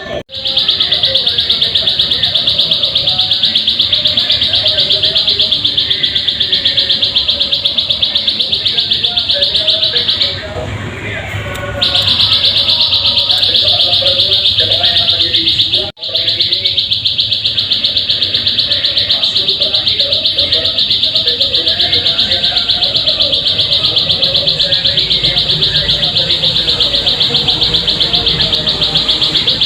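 Ciblek sawah (prinia) song played as a lure recording: a loud, high-pitched, very fast trill of repeated chirps, with a pause of about a second and a half roughly ten seconds in and a brief break near the sixteenth second.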